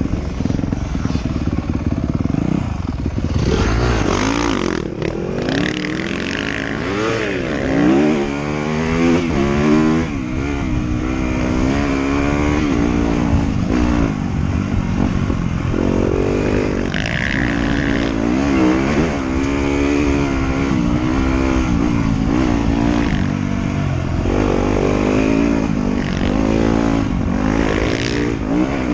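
Trail motorcycle engine on the move, its pitch rising and falling again and again as the throttle opens and closes and gears change, over a steady rushing noise.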